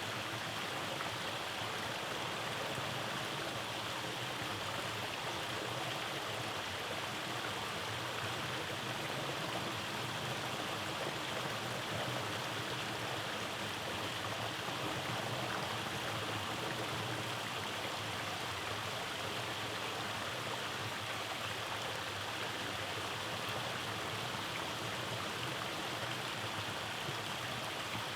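Rainforest stream rushing over rock cascades: a steady, even wash of flowing water.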